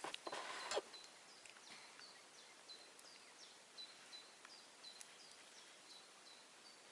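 Faint, quick run of short high chirps, about three a second, typical of a small bird calling, after a brief rustle at the start.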